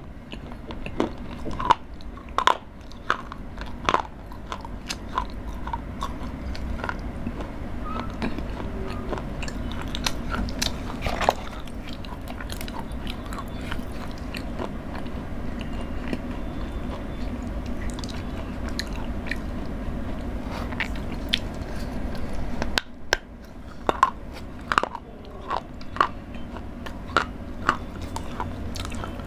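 Close-miked chewing of chocolate, with sharp crunches and cracks, many in the first few seconds and again near the end, and steadier chewing in between.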